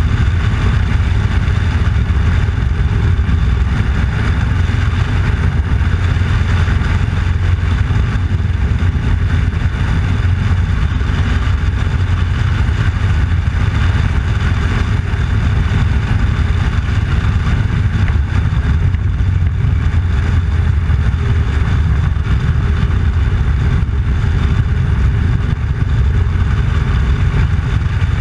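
Motorcycle engine running steadily while riding, a loud low drone that holds even throughout.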